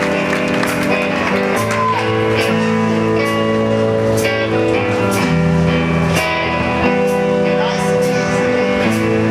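Live rockabilly blues band playing, with a steady beat.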